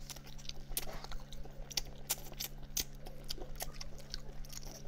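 Close-up eating sounds of a person chewing braised chicken head: irregular small clicks and mouth smacks over a steady low hum.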